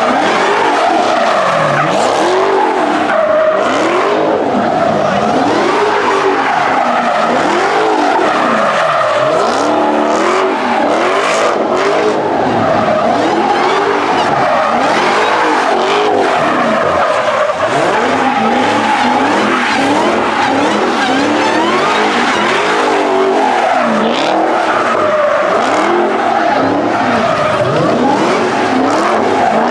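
A car doing donuts or a burnout: the engine revs up and down over and over while the tyres squeal and skid, without a break.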